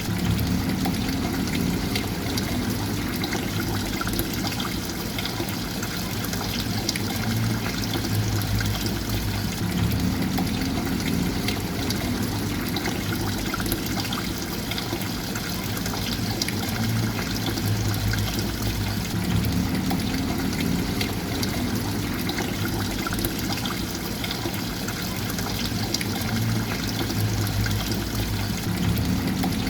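Water trickling and splashing steadily, with a low hum underneath that shifts in a pattern repeating about every ten seconds.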